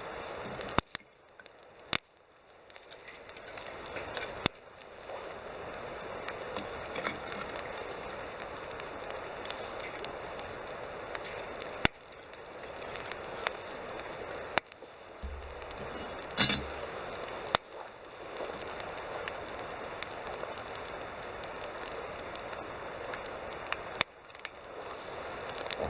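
Wood campfire burning with a steady hiss and crackle, and scattered sharp pops.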